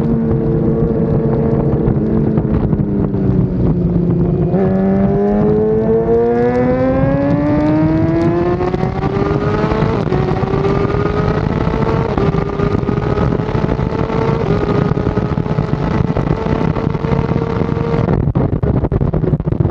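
BMW S 1000 RR race motorcycle's inline-four engine at high revs: the pitch sags for a few seconds, climbs steadily for about five seconds, then holds high and steady until it drops away abruptly near the end.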